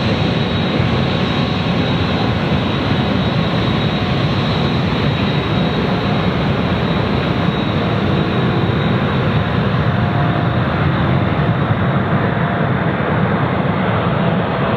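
Steady, loud jet airliner engine noise.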